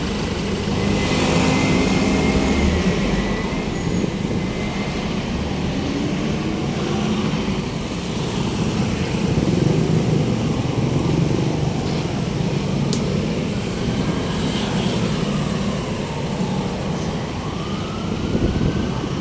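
City street traffic: cars, jeepneys and other motor vehicles running and passing in a steady stream of engine hum and road noise, with a rising and falling tone near the end.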